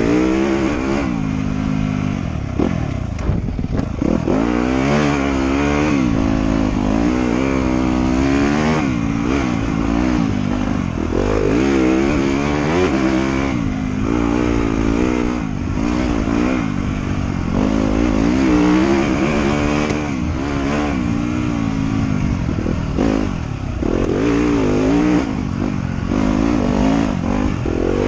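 Trail motorcycle engine being ridden hard, revving up and falling back over and over as the throttle is worked, its pitch rising and dropping every second or two.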